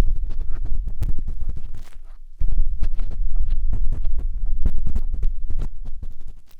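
Ear cleaning on a 3Dio binaural microphone's ear with a matchstick: close, rubbing scratching with dense little clicks over a low rumbling, thumping contact noise, pausing briefly about two seconds in.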